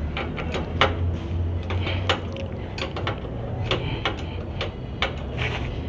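Irregular metallic clinks and knocks, several a second, over a steady low hum: hand tools handled against metal parts in a car repair workshop.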